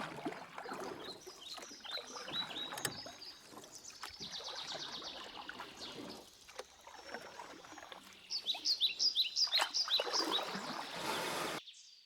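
Outdoor ambience of rustling and scattered knocks, with runs of short, high, falling chirps, densest about eight to ten seconds in.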